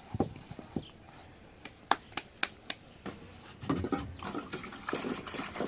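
Handling sounds: a few sharp clicks and knocks, then a busier stretch of rustling and clatter from about three and a half seconds in.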